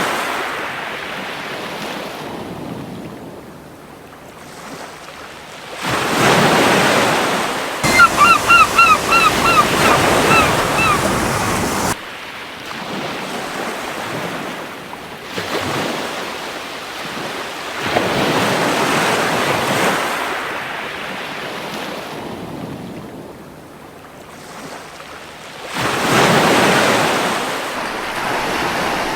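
Surf washing onto a beach, swelling and falling back every several seconds. About eight seconds in, a gull gives a rapid string of about ten short calls.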